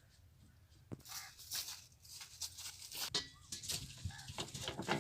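Plastic water bottles rattling and knocking as they are carried and handled, an irregular clatter with rustling that starts about a second in.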